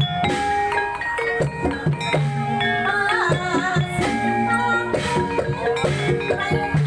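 Gamelan music for ebeg, played loud: struck mallet instruments ringing out pitched notes over a repeating low gong-and-drum pattern, with a wavering melody rising above it around the middle.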